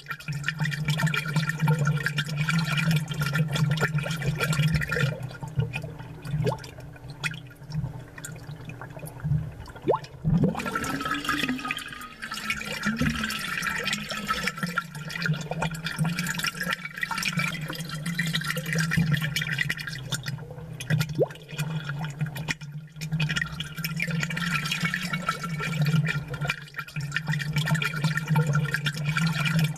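Aquarium water bubbling and gurgling, picked up close and amplified, with many small pops of bursting bubbles over a steady low hum.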